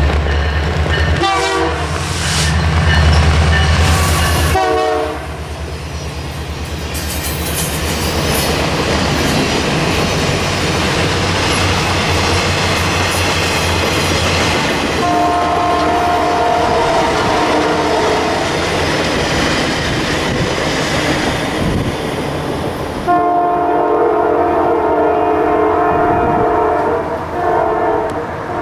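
Canadian Pacific GP20C-ECO diesel locomotive passing close, its engine rumbling, with two short horn blasts in the first few seconds. Then the passenger coaches and cars roll by with wheel clatter, while the horn sounds long held blasts farther down the line from about halfway and again near the end.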